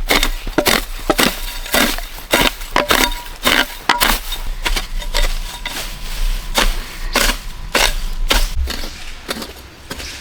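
Bamboo being chopped with a blade: a fast, irregular run of sharp woody strikes, about two to three a second, thinning out near the end.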